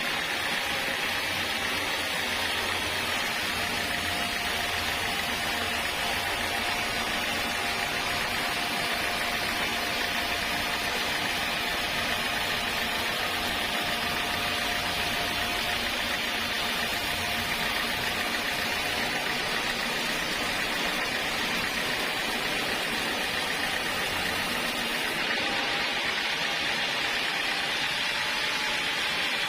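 Sawmill saw running steadily: an even, hissing machine noise with a faint steady whine under it.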